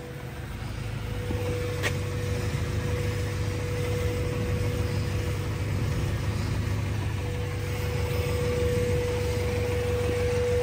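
A vehicle engine idling steadily, with a constant humming tone over a low rumble. A single click about two seconds in.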